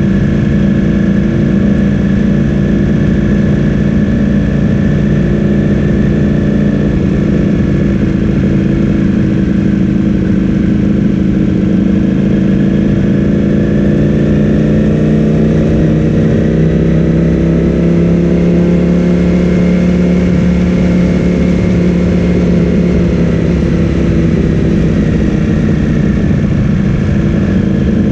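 Ducati Streetfighter V4S's 1103 cc V4 engine through an Akrapovic full-system exhaust, running at low, near-steady revs. Its pitch rises gently about halfway through and settles back down near the end.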